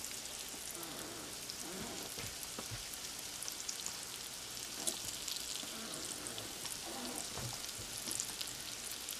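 Egg-and-flour-coated morel mushrooms frying in hot oil in a skillet: a steady sizzle with many small crackles and pops.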